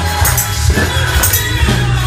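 Live gospel praise music: a heavy, steady bass with regular bright tambourine-like percussion hits on the beat, and faint singing.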